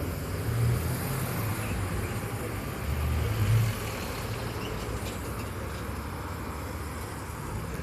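Steady road-traffic noise: motor vehicles running, with a low engine hum that swells slightly a couple of times.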